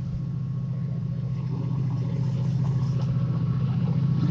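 Diesel train engine running with a steady low throb, growing steadily louder as the train approaches.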